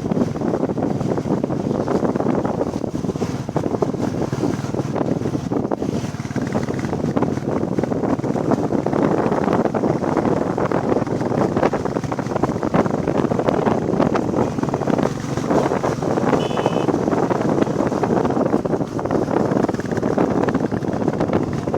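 Wind rushing over the microphone on a moving motorcycle, with the engine of a Royal Enfield Bullet Classic 350 running steadily underneath.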